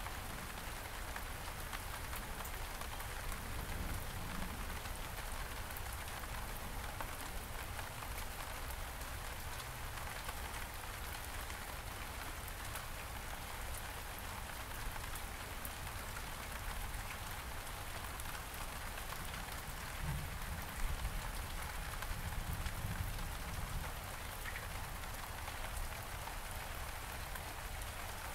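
Steady rain falling on several kinds of surfaces, with a few brief low thumps about two-thirds of the way through.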